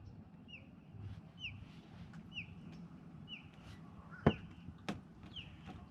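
A bird calling repeatedly: short, thin, falling whistled notes about once a second. Two sharp clicks come in the second half.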